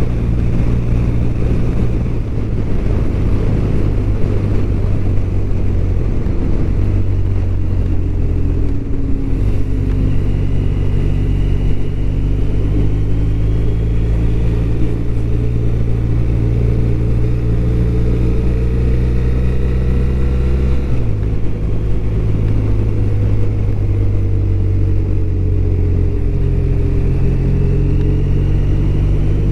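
BMW R1200RT's boxer-twin engine running under way, its note holding steady and then stepping abruptly to a new pitch a few times, most clearly about a third of the way in and about two-thirds through.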